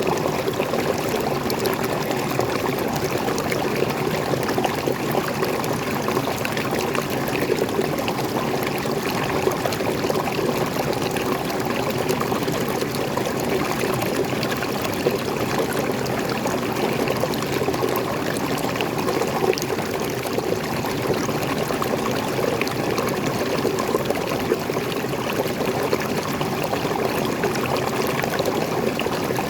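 Small forest waterfall and stream, water pouring and flowing in a steady, unbroken rush.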